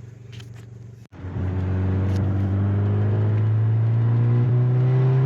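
Volkswagen Golf R's turbocharged 2.0-litre four-cylinder, fitted with an HPA FR450 turbo, on a full-throttle pull. After a brief drop about a second in, the engine note gets much louder and climbs steadily in pitch as the revs rise.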